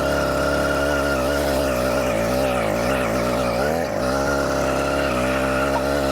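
Small 80cc two-stroke engine on a motorised mountain bike running under throttle, its pitch wavering up and down as the rider rides off with the clutch engaged.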